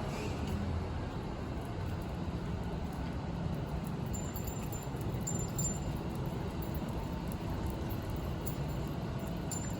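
Street ambience: a steady rumble of traffic and city noise, with a few faint high tinkles partway through.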